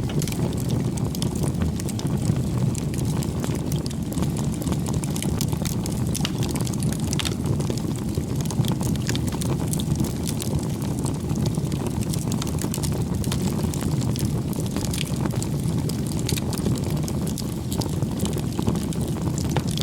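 Bonfire burning: a steady low rush of flame with irregular sharp crackles and pops of burning wood throughout.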